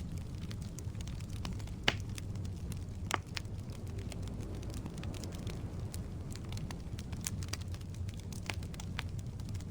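Wood fire burning in a fireplace: a steady low rumble of the flames with scattered crackles, and a couple of louder pops about two and three seconds in.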